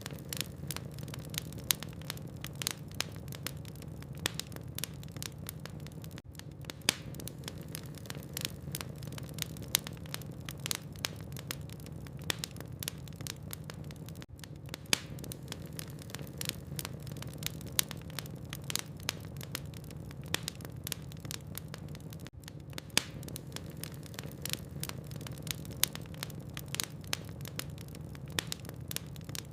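Burning logs in a fireplace crackling, with frequent irregular sharp pops and snaps, a few louder than the rest, over the steady low rumble of the fire.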